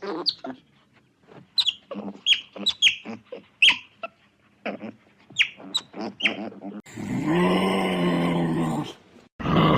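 Animal calls: a run of short, sharp, high squeaky calls, then a longer, louder, harsh low call about seven seconds in, and another starting near the end.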